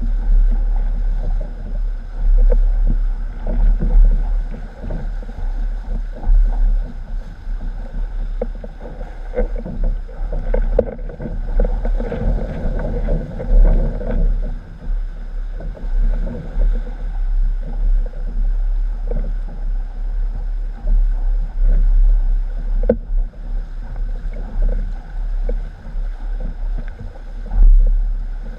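Strong wind buffeting the microphone in a heavy, uneven rumble, with water rushing and slapping against a windsurf board under sail.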